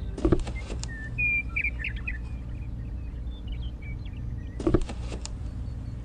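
Miniature clay brick wall pieces clicking and knocking as they are set into place, in two short clusters, one near the start and one near the end. Between them a bird chirps a few times, over a steady low hum.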